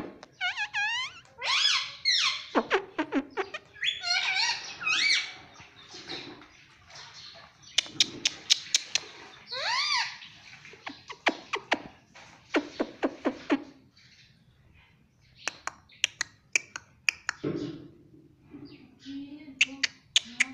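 Indian ringneck parrot chattering in shrill, fast-bending talk-like calls and squawks, broken by runs of sharp clicks.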